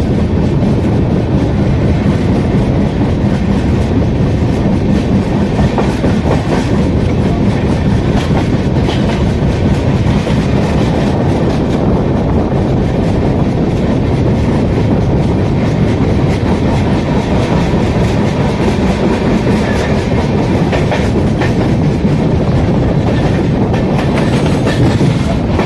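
Passenger train running along the track, heard from an open coach doorway: a steady loud rumble of wheels on rails with a clatter over the rail joints.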